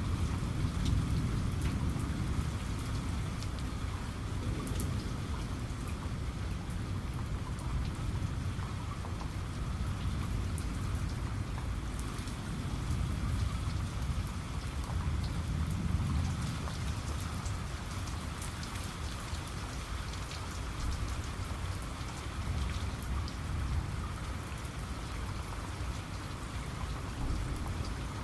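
Heavy rain falling steadily, with the sharp hits of individual drops, and low rumbles of distant thunder swelling about a second in and again around the middle.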